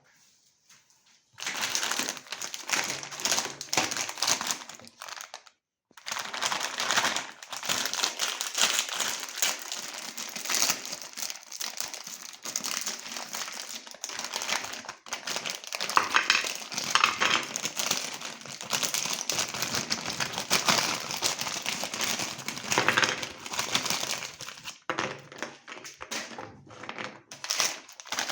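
Colourful cookies crunching and crackling as they are crushed in a meat grinder, a dense continuous crackle that starts about a second and a half in and breaks off briefly near six seconds.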